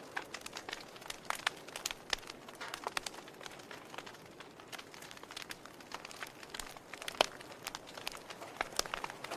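Wood fire of burning logs crackling: irregular sharp pops and snaps over a steady low hiss, with one louder pop a little past seven seconds in.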